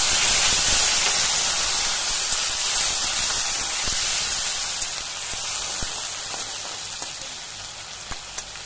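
Wet onion and ginger paste sizzling hard in hot oil in a kadai: a loud, steady hiss that slowly dies down, with a few light clicks of the spatula near the end.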